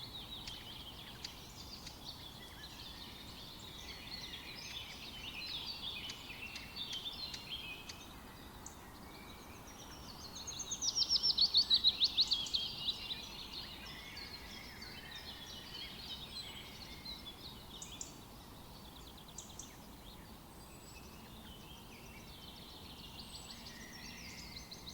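Several birds chirping and singing together in a continuous chorus, with one louder, rapid trill about ten seconds in lasting a few seconds.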